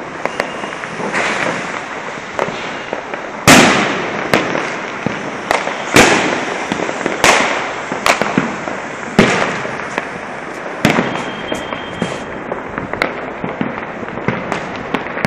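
Fireworks and firecrackers going off: a constant crackle of many small firecrackers, broken every second or two by sharp loud bangs, each fading off in an echo. The loudest bang comes about three and a half seconds in.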